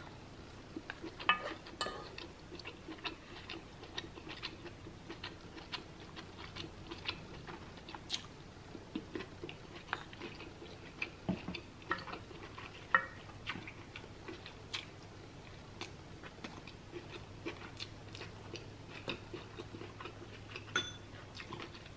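Close-up chewing and mouth sounds of someone eating, with many small irregular clicks and smacks. A wooden spoon and a metal fork tap and scrape in a nonstick pan.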